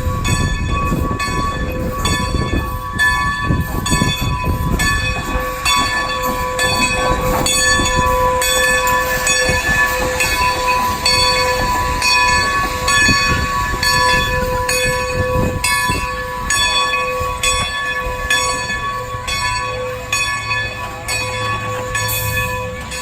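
Railroad locomotive's bell ringing steadily, about two strikes a second, over the low rumble of a train rolling by.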